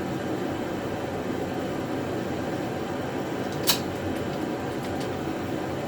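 Steady background hum of a running fan, with one sharp click about two-thirds of the way through and a few faint ticks after it.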